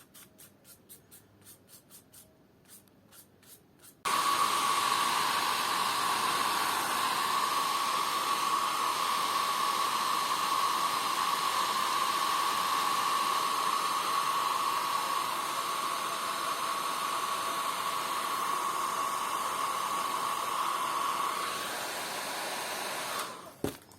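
Faint rapid ticking, then a handheld air blower switched on about four seconds in, running with a steady hiss and a steady whine, and switched off about a second before the end.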